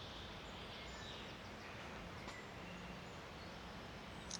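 Quiet woodland ambience: a steady low hiss with a few faint, distant bird chirps.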